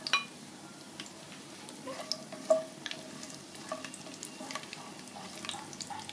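Raisins, cashews and almonds frying in hot vegetable ghee in a pan, stirred with a spatula: a faint sizzle with scattered clicks and scrapes of the spatula on the pan. A sharp clatter right at the start as the raisins go in from a glass bowl, and a louder knock about two and a half seconds in.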